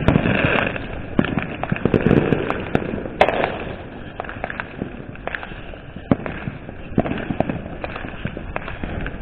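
Fireworks and firecrackers going off in many sharp bangs and pops. The bangs are louder and more frequent in the first few seconds, with one big bang about three seconds in, then thin out to fainter scattered pops.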